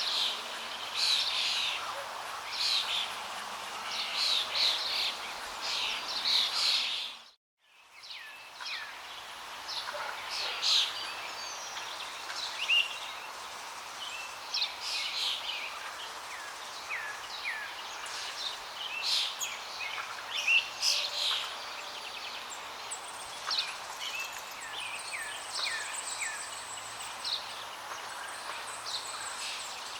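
Flowing water with many small birds chirping over it, some in short falling chirps. About seven seconds in, the sound cuts out for a moment and fades back in.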